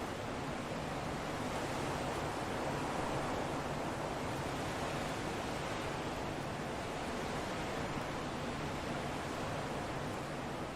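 Wind blowing steadily, a smooth rushing noise that swells a little about three seconds in and then eases.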